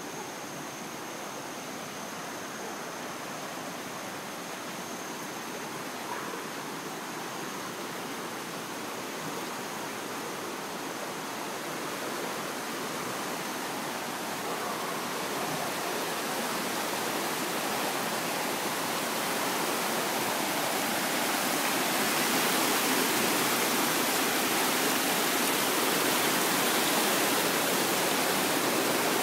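Rushing floodwater, a steady roar that grows gradually louder over the first twenty seconds or so, then holds level.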